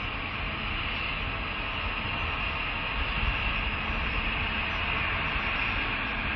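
ETS electric multiple-unit train running past on the track: a steady rumble and hiss of wheels on rail, growing slightly louder.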